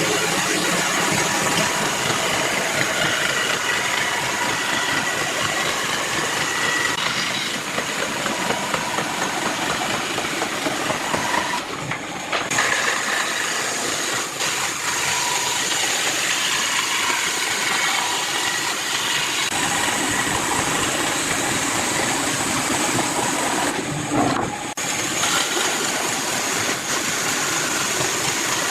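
Steady machine noise from a running motor, cut off twice briefly by abrupt breaks.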